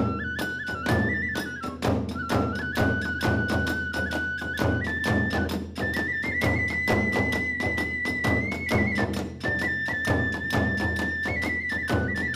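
Kagura hayashi ensemble playing: a bamboo transverse flute carries a stepping melody over a fast, steady beat of drums and small hand cymbals, and the drums and cymbals come in right at the start.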